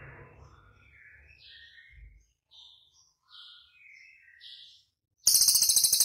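Songbird singing a series of short, varied chirping notes, then about five seconds in a loud, fast rattling trill.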